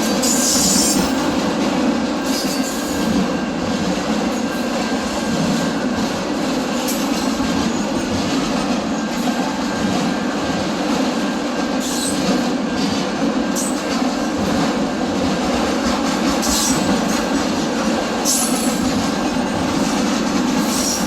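Train rolling past close by: a steady, loud rumble of the cars on the rails, with short high wheel squeals breaking in several times.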